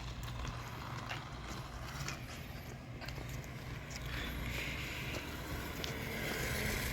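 Losi Pro Moto-MX RC dirt bike running on dirt at a distance: a faint electric motor and tyre noise with small knocks, rising a little about four seconds in, over a steady wind rumble on the microphone.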